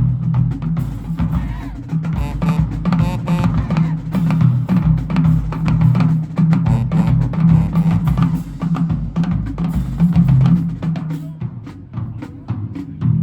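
Marching band drumline playing a fast percussion cadence, snare and bass drums pounding over a steady low tone, thinning to sparser, separate hits near the end.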